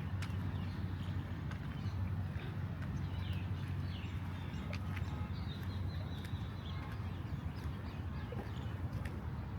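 Small birds chirping in short, scattered calls, with a few sharp clicks, over a steady low hum.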